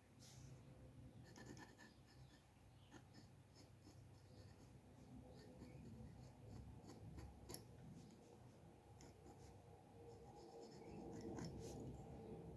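Faint scratching of a drawing tool on paper, many short irregular strokes, with one sharper tick about seven and a half seconds in.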